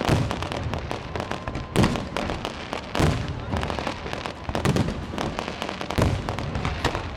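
New Year fireworks display: loud shell bursts go off every second or two, over continuous crackling and popping.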